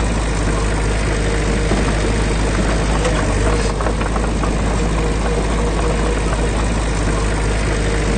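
Heavy diesel construction machine engine running steadily with a deep low hum.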